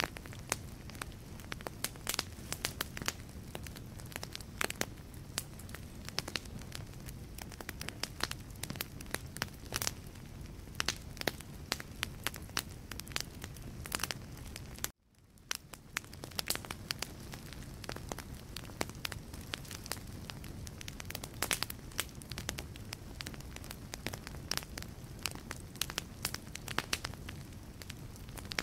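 Wood fire burning in a fireplace: a steady low rush with frequent sharp crackles and pops of the logs. About halfway through, the sound drops out for an instant and fades back in.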